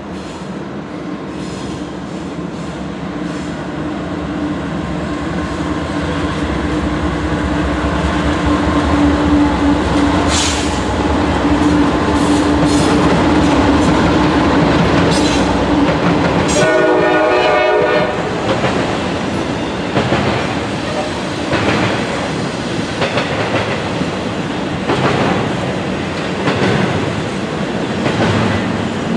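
Double-stack intermodal freight train passing: the locomotive's steady drone grows louder as it approaches. About two-thirds of the way through there is a short horn blast. Then the wheels clack over rail joints as the container cars roll by.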